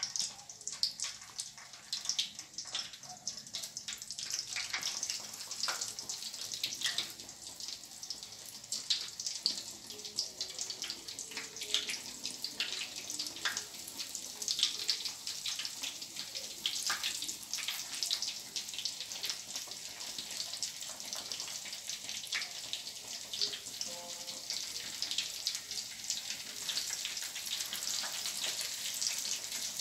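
Fish rolls deep-frying in hot oil in a frying pan: a steady sizzle full of small crackles and pops, growing fuller in the second half as more rolls go into the oil.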